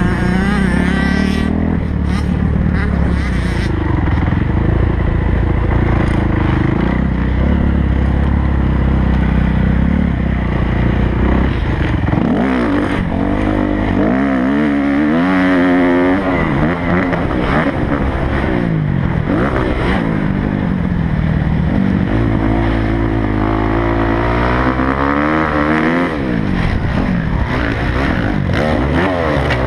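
Kawasaki motocross bike's engine at full throttle, heard close up from on the bike, revving up and dropping back again and again as the rider works the throttle and gears through the track.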